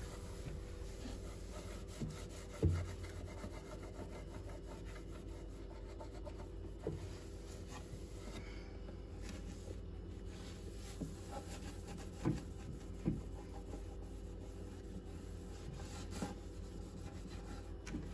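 Cloth wiping the shelves of a small kitchen storage cupboard: a steady rubbing, with a few short knocks, the loudest about three seconds in.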